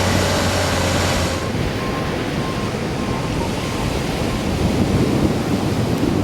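An engine running briefly, then from about a second in, wind rumbling on the microphone over breaking surf, with a faint beeping repeated at a steady pace.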